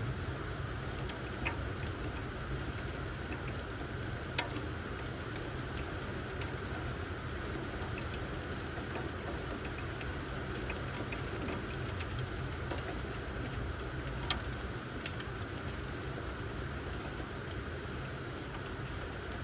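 Steady rain falling, with a few sharp drips standing out, over a steady low rumble.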